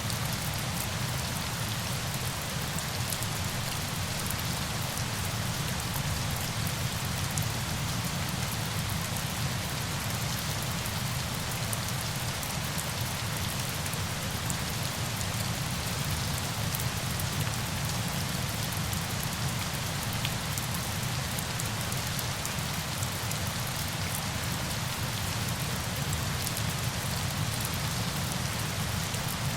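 Steady rain falling on surfaces: an even hiss with scattered drop ticks that does not change.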